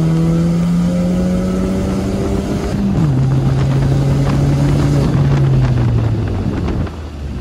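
Pontiac Solstice GXP's turbocharged 2.0-litre four-cylinder pulling at wide-open throttle, heard from inside the cabin, loud through an exhaust cutout stuck open. Engine pitch climbs, drops sharply at a gear change about three seconds in, climbs again, then fades near the end. It pulls smoothly without breaking up, which the driver takes as the taped turbo hose now holding boost.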